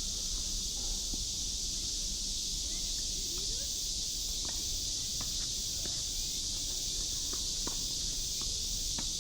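Outdoor tennis-court ambience: a steady high hiss, with a few faint sharp knocks scattered from about three seconds in.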